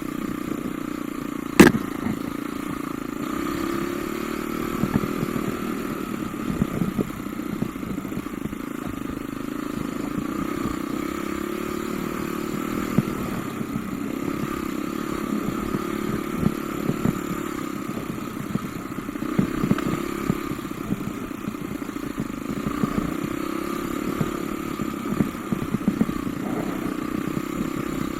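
Off-road motorcycle engine running as the bike is ridden, its note swelling and easing with the throttle, with scattered clattering knocks throughout and one sharp, loud click about a second and a half in.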